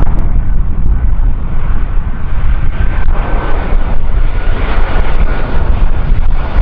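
Airliner engines at high power on takeoff or climb-out: a loud, steady rumble with a faint high whine.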